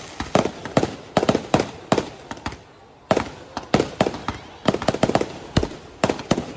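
Fireworks exploding in quick succession: sharp bangs several times a second, each with a short echoing tail, and a brief lull about halfway through.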